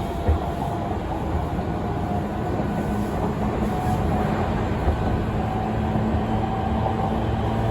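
Tokyu 5050 series electric train running at speed between stations: a steady rumble of wheels on rail with a faint steady motor hum. There is a sharp knock just after the start and another about five seconds in.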